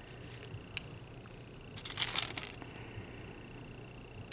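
Small nail-art supplies being handled close by: a single sharp click under a second in, then a brief burst of crinkling clicks about two seconds in.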